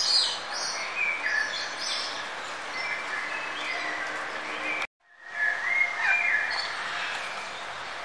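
Several birds chirping and singing over one another, short bright phrases against a steady outdoor background. The sound cuts out completely for a moment about five seconds in, then fades back in.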